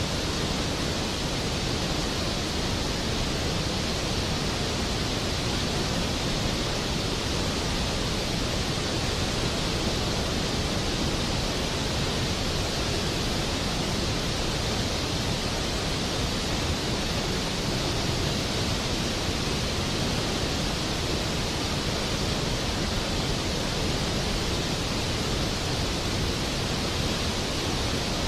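Steady heavy rain, an even unbroken hiss with no thunder or other events.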